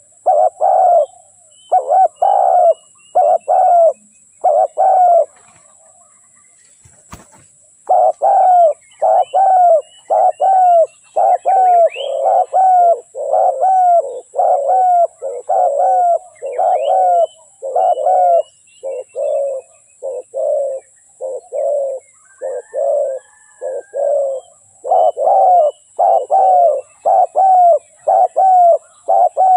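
Spotted dove cooing, a long run of short coo notes repeated at a steady pace. The run breaks once for a couple of seconds near a quarter of the way in, where there is a faint click. Faint chirps of small birds sound in the background.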